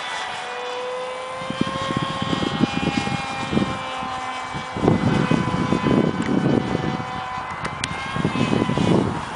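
Radio-controlled canard airplane in flight, its electric motor and propeller giving a steady whine whose pitch drifts slightly. Gusts of wind buffet the microphone, loudest about halfway through and near the end.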